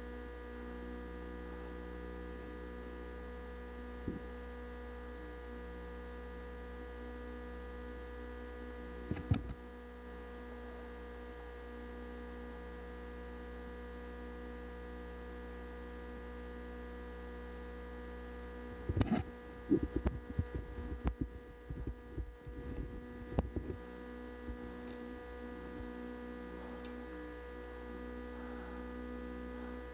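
Steady electrical hum with several fixed tones, broken by a knock about nine seconds in and a run of irregular knocks and rattles about two-thirds of the way through.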